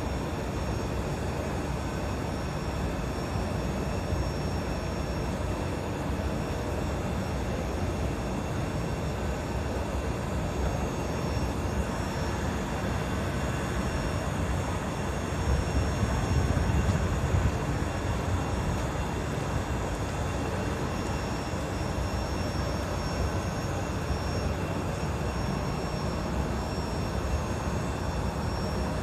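An engine running steadily on a test run, a continuous rumble that swells louder for a couple of seconds around the middle.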